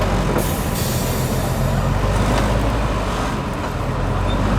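Heavy off-road trial truck's diesel engine running steadily at low revs.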